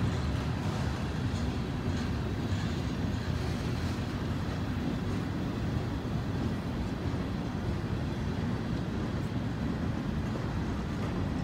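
Norfolk Southern manifest freight train rolling past at a grade crossing: a steady low rumble of coil cars, covered hoppers and tank cars on the rails.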